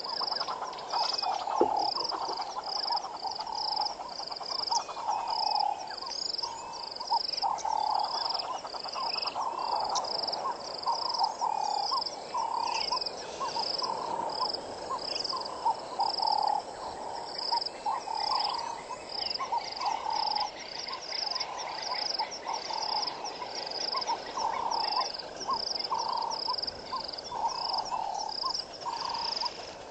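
Red-billed hornbills calling in a long series of clucking notes. Behind them runs a steady high chirp that repeats about one and a half times a second.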